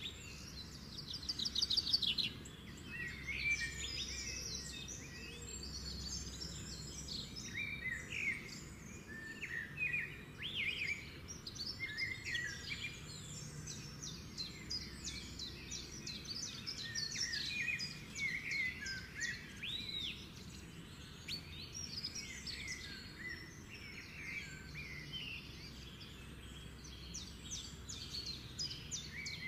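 Small birds chirping and twittering throughout, with many short calls and quick trills overlapping one another.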